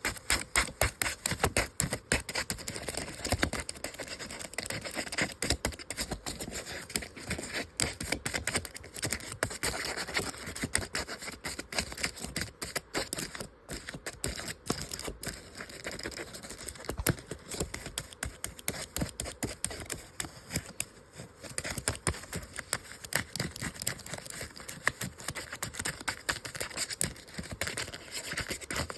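Paper being scratched, scraped and picked at with a tool: a continuous run of quick, irregular scratchy strokes and small clicks as a paper-craft phone is worked apart.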